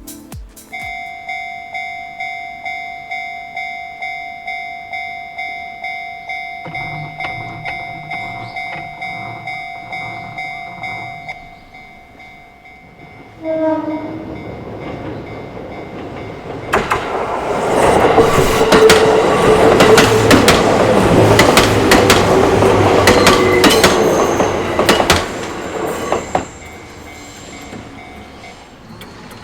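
Japanese level-crossing alarm ringing in a steady, quick repeated ding. About 13 seconds in a train gives a short horn blast, then passes loudly over the crossing for about ten seconds, its wheels clattering over the rail joints, while the alarm keeps ringing until near the end.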